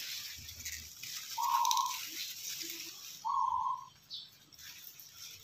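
A bird calling twice, a short flat note about two seconds apart.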